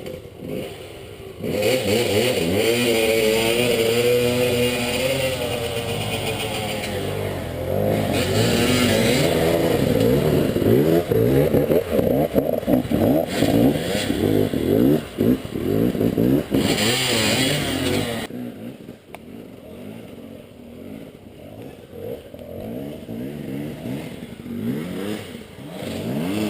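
Enduro motorcycle engine revving hard under load. The throttle is opened and closed over and over, the pitch sweeping up and down as it climbs. About two-thirds of the way through, the engine sound drops to a quieter, lower running.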